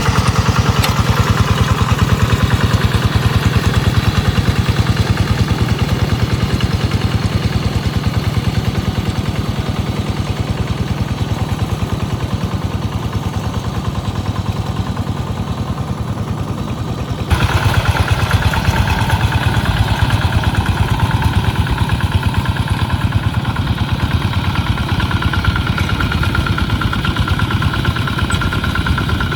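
Tractor engine running steadily in a fast, even chug while working a wet rice paddy. About two-thirds of the way through, the sound changes abruptly and turns brighter and louder in its upper range.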